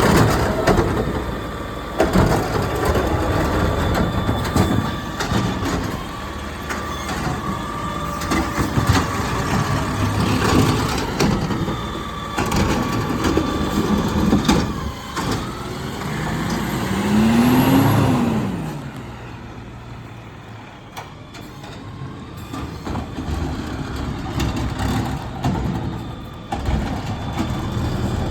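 Garbage truck engine running, with repeated knocks and clanks. The engine revs up and falls back about two-thirds of the way through, then drops to a quieter idle.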